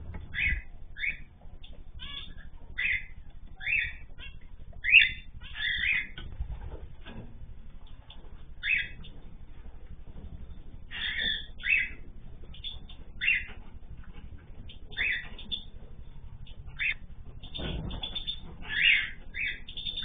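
Caged aviary birds calling: short chirps repeated at irregular intervals, roughly one a second, over a low steady hum.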